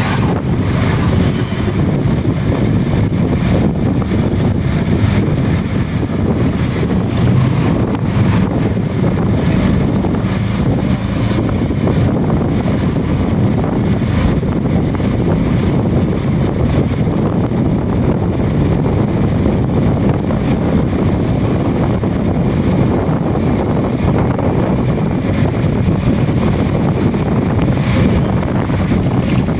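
Heavy rain pouring steadily, with wind buffeting the microphone.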